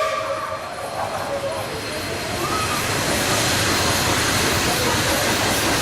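Train running on the rails with a steady rumble and hiss, growing louder about three seconds in, over faint voices.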